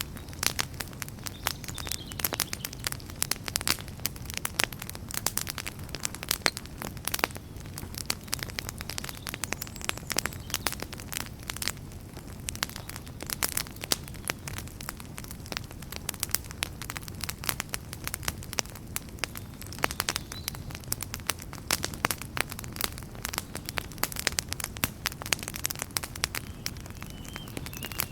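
Wood campfire crackling steadily, with frequent irregular sharp pops and snaps over a low steady rumble.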